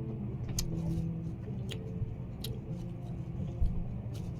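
A few light, sharp clicks and taps from eating balut at the table, over a steady low background hum.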